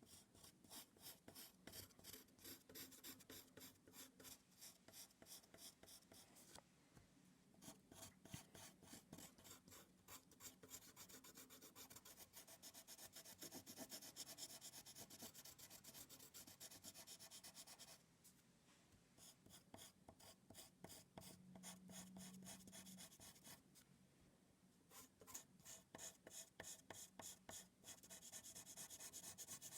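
Faint, rapid scratching strokes of drawing the hair, going on in runs with a few short pauses.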